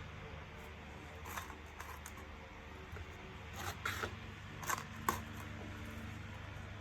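Plastic parts of a bagless vacuum cleaner clicking and rattling as they are handled and fitted together, about six short clicks with the sharpest one about five seconds in, over a steady low hum.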